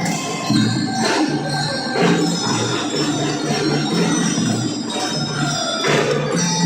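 Children's marching drum band playing a tune: ringing metal bell notes carry the melody over sustained lower notes and drum strokes that fall about once a second.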